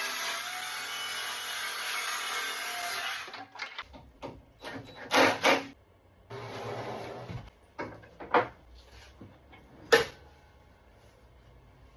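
Woodworking sounds: a power tool runs steadily and cuts off abruptly after about three and a half seconds. Then come scattered knocks and rubbing of lumber being worked, with one sharp knock about ten seconds in.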